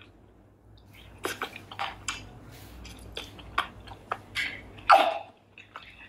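Close-miked chewing and eating sounds from a person tasting pepper soup with meat, made of irregular wet clicks and mouth noises, with a louder mouth noise about five seconds in.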